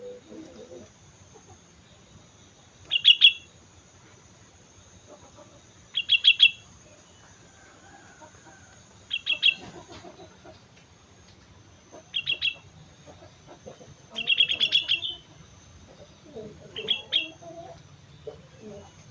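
Sooty-headed bulbul (kutilang) singing: a short, bright bubbling phrase repeated about every three seconds, with fainter low sounds between the phrases.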